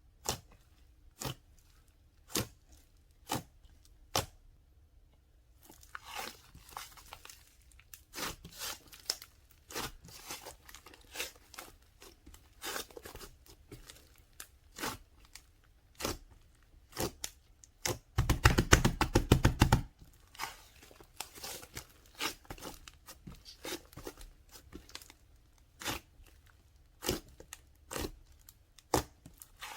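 Crisp crunching and crackling of something being handled. It starts as single sharp crunches about a second apart, thickens into denser crackling, and a little past the middle comes a loud, rapid run of crackles lasting about two seconds.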